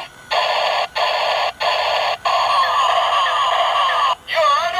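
Battery-powered toy police car's electronic sound chip playing through its small speaker: a string of four harsh, buzzy electronic bursts with short gaps between them, then a wavering siren wail starting near the end.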